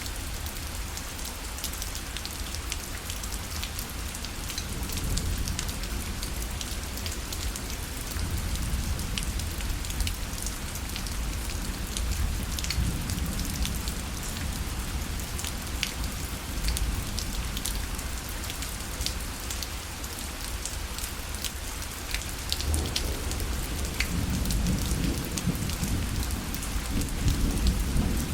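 Steady rain falling on a fabric parasol, with many separate drop taps over an even hiss of rain. A low rumble swells in the last few seconds.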